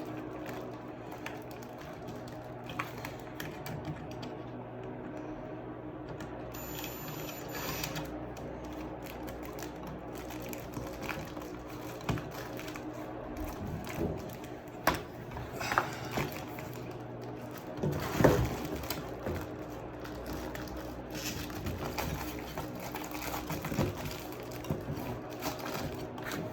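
Clicks, scrapes and rubbing as a duct clamp on a carbon filter is loosened and the filter and ducting are shifted by hand, over a steady hum. The handling grows busier in the second half, with the loudest knock about 18 seconds in.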